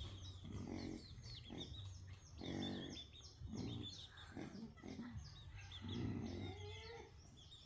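Baby monkey grunting and squealing in short low calls, with longer calls about two and a half seconds in and again around six seconds, over a background of quick, high, repeated chirps.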